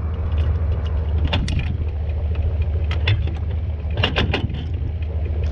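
Vehicle engine idling steadily with a low rumble, with a few sharp clicks and knocks on top, the first about a second and a half in and a cluster around four seconds.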